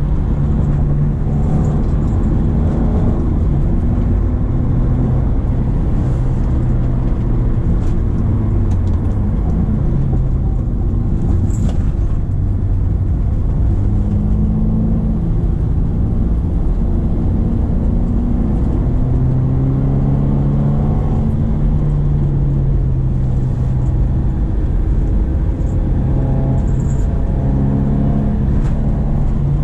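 Subaru Impreza XV's 2.0-litre boxer four-cylinder engine pulling uphill under load, its revs repeatedly rising and then dropping back.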